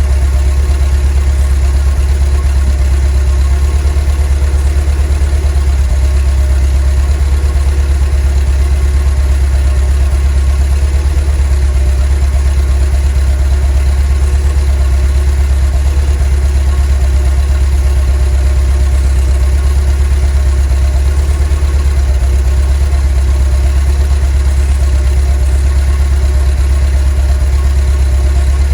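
Volkswagen T3 bus's 2.1-litre water-cooled flat-four (WBX) engine idling steadily with a deep, even hum.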